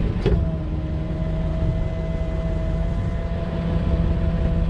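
Rollback tow truck's engine running with a steady whine from the PTO-driven hydraulic pump as the bed is worked; the whine comes in just after the start and holds at one pitch over a constant low engine rumble.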